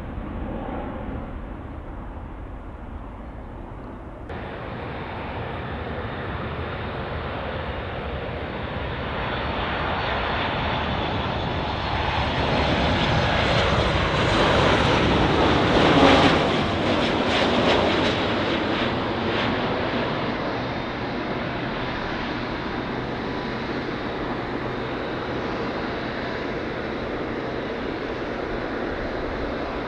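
Jet engine noise from a Boeing 737 MAX 8 with CFM LEAP-1B engines coming in to land. The roar builds as the airliner passes close by, peaks about halfway through, then fades to a steady rumble.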